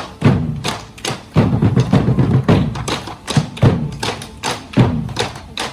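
Fast, loud percussion for a tribal dance: rapid sharp wooden knocks mixed with deep drum thumps in an uneven, driving rhythm.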